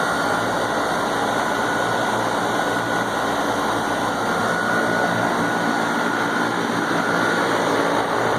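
Trane outdoor air-conditioning condenser unit running steadily: fan and compressor noise with a thin, steady high whine.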